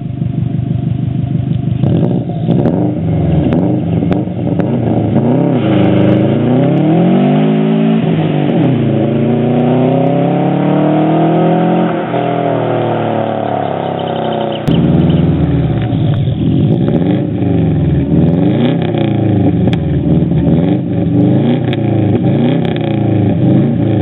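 Subaru Impreza flat-four boxer engine revving through a decatted exhaust with a Borla axle-back. The revs go up and down again and again, with one long climb and fall in the middle, then a run of short, quick blips.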